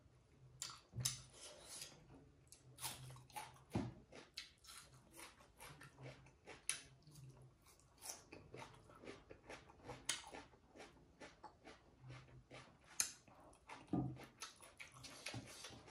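Someone chewing a mouthful of rice and pork, with many short irregular mouth clicks.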